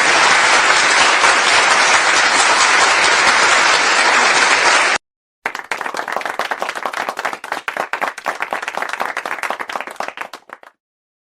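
Crowd applause, dense and even, cut off abruptly about five seconds in. After a brief gap, a second recording of sparser clapping starts, with the single claps heard separately. It stops shortly before the end.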